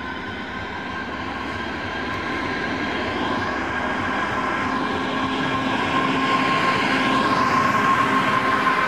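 Diesel freight locomotive approaching and passing, hauling hopper wagons. The engine and rumble grow steadily louder until the wagons are rolling by near the end, with a steady high whine throughout.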